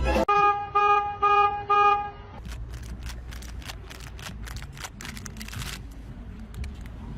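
A horn honks four short times in quick succession, each toot with the same steady pitch. After that come quieter scattered clicks and rustling.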